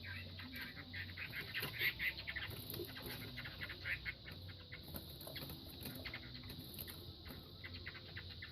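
Two gamecocks fighting: wings flapping and bodies and feet striking in quick, irregular scuffles.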